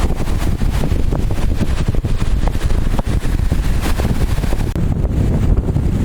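Strong wind buffeting the microphone: a loud, rough low rumble.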